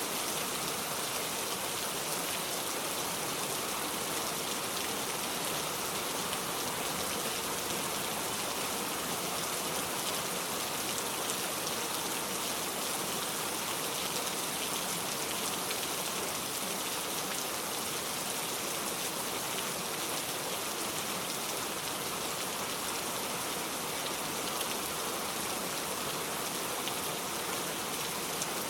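Steady rain falling on a surface, a constant hiss of many small drop patters with no let-up.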